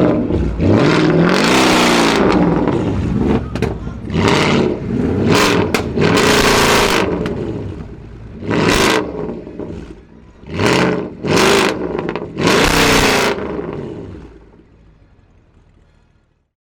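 Mercedes-Benz E500 W212's tuned 4.7-litre twin-turbo V8, with a custom downpipe and exhaust, revved in a series of about eight sharp blips, each pitch rising and falling back. The sound fades out over the last couple of seconds.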